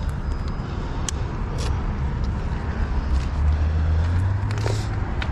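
Road traffic: a car's low engine rumble that swells about three seconds in and eases off near the end, with a couple of short clicks early on.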